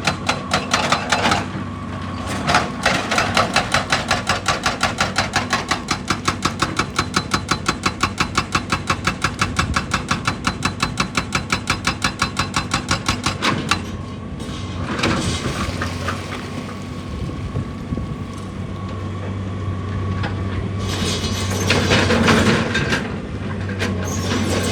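Excavator-mounted hydraulic breaker hammering rock in a rapid, even run of blows, several a second, over the steady running of the excavator's diesel engine. The hammering stops about halfway through, and the engine runs on with irregular scraping and rumbling.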